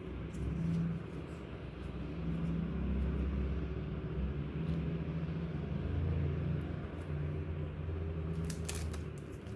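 Low rumbling background noise that swells and fades, with a few light clicks and a short rustle near the end.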